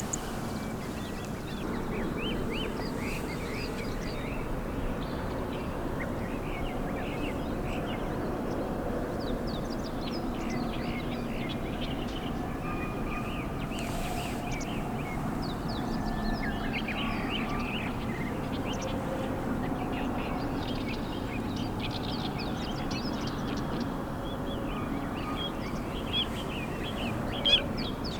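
Birds chirping and calling, many short high chirps throughout, over a steady low background rumble.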